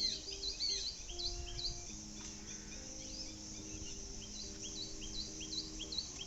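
Small birds chirping in repeated short, high chirps, dense for the first two seconds and then a regular run of about two or three chirps a second, over soft background music of held notes.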